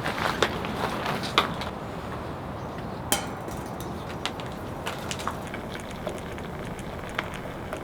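Steady hiss of rain with scattered sharp crackles and snaps, a few louder ones in the first three seconds.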